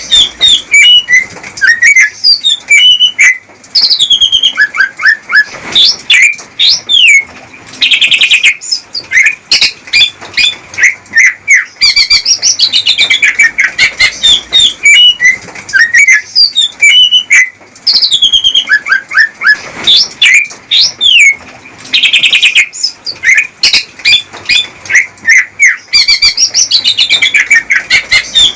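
Male green leafbird (cucak ijo) singing a fast, varied courtship song of chirps, whistled glides and rapid trills, broken by short pauses, with a buzzy rattling trill twice, about 8 and 22 seconds in. It is the male's song for wooing a female into breeding readiness.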